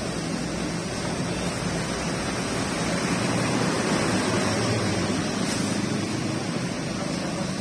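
Rain falling steadily: an even, continuous hiss that swells slightly midway.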